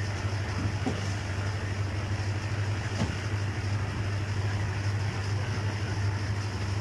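Steady low hum of an engine or motor running continuously, with a faint tick about a second in and another about three seconds in.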